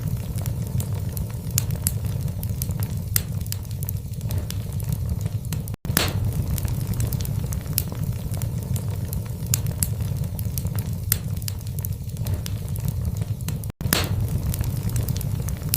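Wood fire burning in a fireplace: a steady low rumble of flames with frequent sharp crackles and pops from the logs. Twice the sound drops out to silence for an instant.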